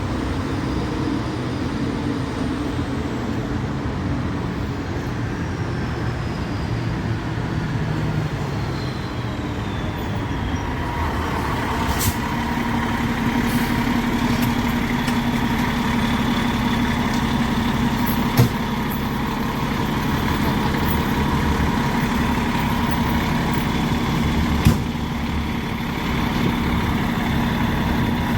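Fire truck's diesel engine running steadily as the rig maneuvers, with a steady higher whine from about a third of the way in. Three sharp short sounds come about six seconds apart.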